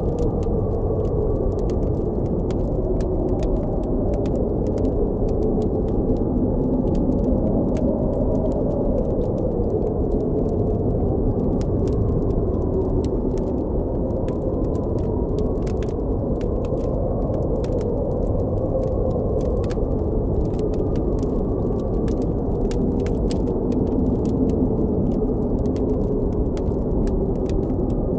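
Blizzard wind blowing steadily, with a slowly wavering whistle in it, under a campfire crackling with frequent small sharp pops.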